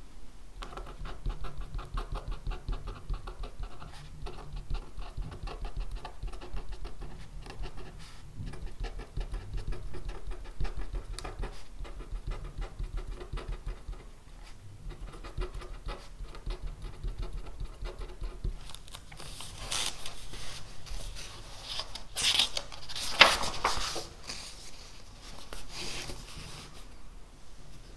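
Pen writing on paper: a steady run of quick scratchy strokes. About two-thirds of the way in there are several seconds of louder rustling and handling, with one sharp knock.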